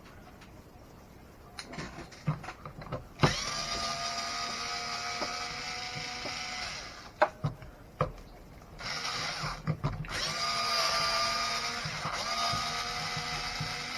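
Power screwdriver whining in two runs of a few seconds each, starting about three seconds in and again about nine seconds in, driving screws out of an RC truck during disassembly. Light clicks of handled parts before and between the runs.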